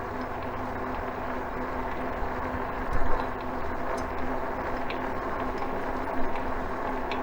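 Ecotric 48 V fat-tire electric bike riding along: a steady hum and rumble with a louder bump about three seconds in, and a few light clicks from a pedal whose bearing is going bad.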